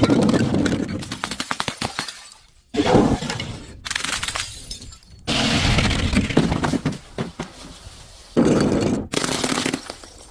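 Objects being crushed, crunching and cracking apart in four separate bursts that each start suddenly and fade away.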